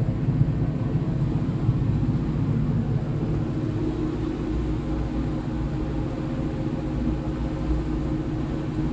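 Generator and package air-conditioning unit running together: a steady low mechanical drone with a faint hum over it.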